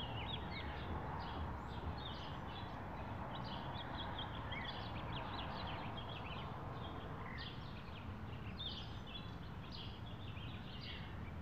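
Many small birds chirping busily over a steady low background hum.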